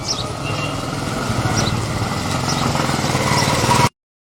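A vehicle engine idling steadily with a low hum, with short high chirps over it. It cuts off abruptly just before the end.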